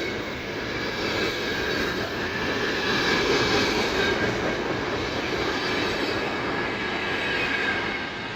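Freight train rolling past close by: a steady rumble and clatter of wagons on the rails, with thin high-pitched ringing tones above it.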